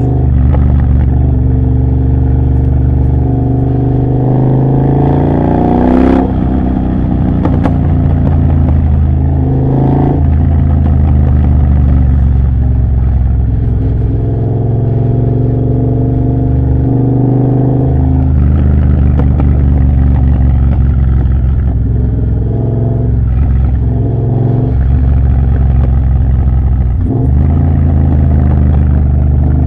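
Triumph Bobber's 1200 cc parallel-twin engine through a Motone Mayhem X-pipe exhaust with next to no silencing, under way: the note climbs in pitch for about six seconds, then drops at a gear change. It runs on at steady revs, with brief dips several times, likely further shifts or throttle lifts.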